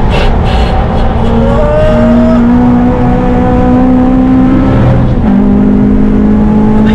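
Modified Honda Civic Type R's four-cylinder engine pulling hard on track, with a Tegiwa cat-back exhaust. The note climbs steadily, then drops about five seconds in at a gear change and carries on.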